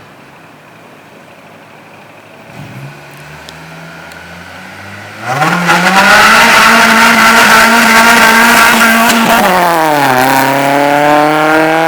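Acura RSX four-cylinder engine through a custom catless 3-inch exhaust with a K-tuned muffler, very loud under hard acceleration. It runs quieter for the first few seconds, turns suddenly loud about five seconds in and holds its pitch, then drops about ten seconds in, as at a gear change, and climbs again.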